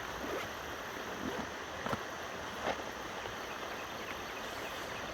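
Steady rush of flowing river water, with a few short clicks and rustles about two and three seconds in as a tackle bag is opened.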